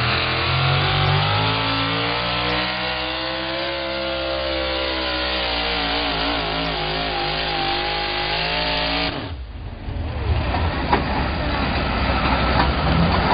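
4x4 pulling truck's engine running at high revs under load, its pitch sagging and wavering as it pulls. About nine seconds in, the sound cuts off abruptly and gives way to a rougher, lower engine rumble.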